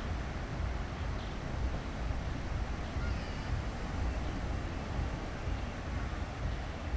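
Seaside ambience: steady wash of surf with wind rumbling on the microphone, and faint distant voices of people on the beach.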